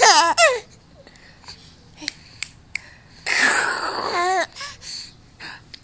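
Baby laughing: a quick run of high-pitched laugh pulses at the start, then a breathy laugh about three seconds in that ends in a few more pitched pulses.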